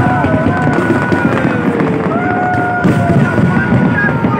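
Fireworks display going off: a dense, fast crackle of small bursts and pops. Music with long held notes plays over it.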